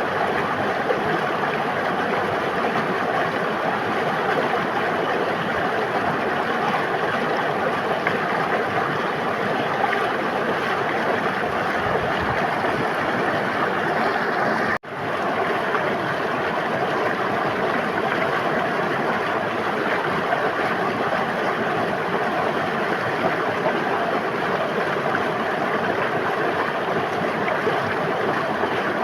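River water flowing steadily, an even rushing and babbling. About halfway through it cuts out for a split second and swells back in, like a loop splice in the recording.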